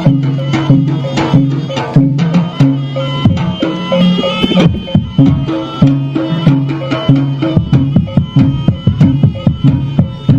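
Live traditional Javanese jaranan music: hand drums beating a quick, steady rhythm over sustained low tones.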